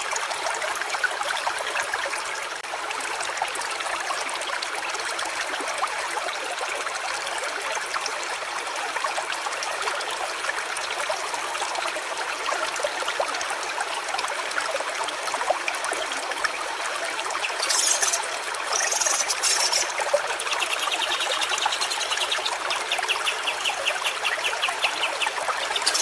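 Stream water trickling and running steadily. In the last few seconds a rapid, evenly pulsed high-pitched trill joins in over the water.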